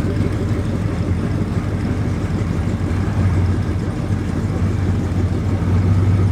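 Car engine idling with a steady low rumble, growing a little louder near the end.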